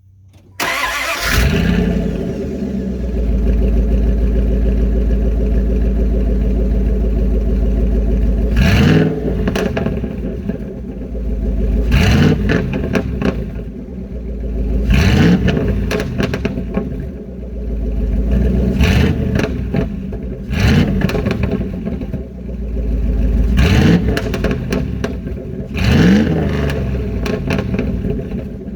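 V8 engine starting, idling loudly, then revved in short blips about every two to three seconds, with sharp backfire pops in the exhaust.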